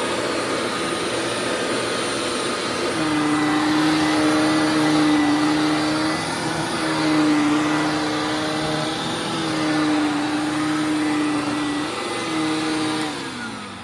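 Hoover WindTunnel WidePath upright vacuum cleaner running with a steady hum that dips briefly in pitch every few seconds, then winds down near the end. Its brush roller turns on a newly replaced bearing, running smoothly without the grinding of the worn one.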